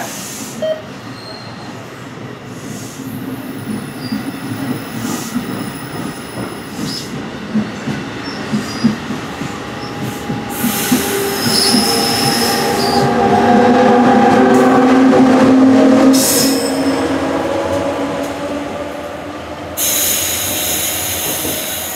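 NJ Transit multilevel commuter train pulling out and accelerating past the platform. Its wheels click steadily over the rail joints at first, then a squealing whine from the running gear builds, peaks around the middle and fades as the last cars go by. A burst of hiss comes near the end.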